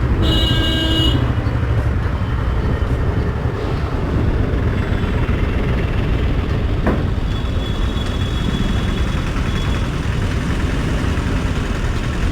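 Royal Enfield Thunderbird 350's single-cylinder engine running steadily amid traffic noise. A vehicle horn sounds for about a second right at the start.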